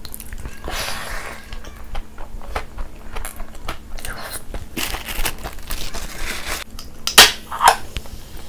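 Close-miked chewing and crunching of mac and cheese coated in crushed hot Cheetos, with many small crisp crunches and wet mouth sounds. Two louder sharp sounds come close together near the end.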